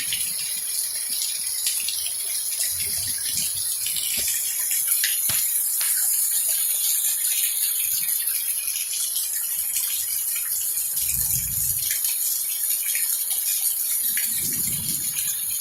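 Steady hiss of heavy thunderstorm rain, with a few short low rumbles a few seconds apart.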